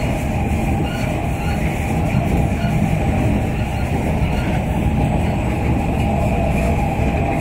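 Singapore MRT North-South Line train running steadily along an elevated track, heard from inside the carriage as an even rumble of wheels and running gear.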